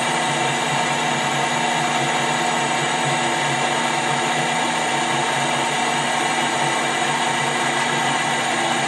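Metal lathe running steadily, its motor and gearing giving an even, many-toned hum.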